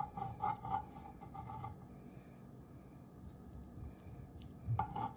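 Knife sawing through chicken wings on a board: quick back-and-forth strokes, about five a second, for the first couple of seconds, then a pause, and again near the end.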